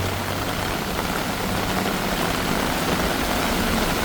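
Heavy tropical downpour falling steadily, a dense even hiss, with a low hum of traffic engines underneath that is strongest in the first second.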